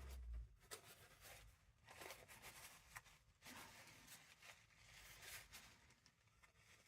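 Faint rustling and scraping of paper and craft materials being handled and shifted about on a desk, with a low bump at the start.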